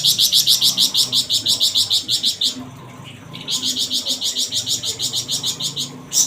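Flamboyan songbird singing two long, rapid trills of sharp, high repeated notes, about ten a second, with a break of about a second between them: the fast 'besetan' rattle-type song prized in a master bird.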